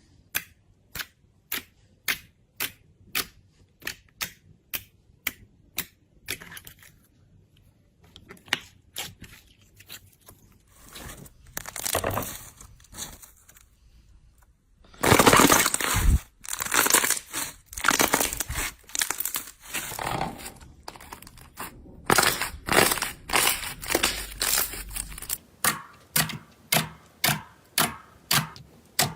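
Hands playing with slime: a steady run of sticky pops about two to three a second, then stretches of squishing and crackling, then regular pops again near the end.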